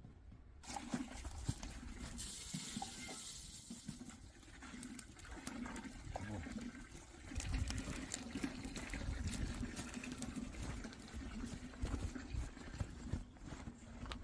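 Water running and splashing steadily, with scattered small knocks and clatter.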